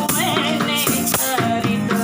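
A busker singing a song with rhythmic accompaniment: a melodic voice over a steady beat of shaken rattle strokes.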